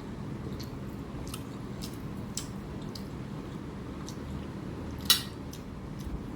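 Eating sounds: scattered small wet clicks and taps of food being handled on a plate, with one sharper click about five seconds in, over a steady low hum.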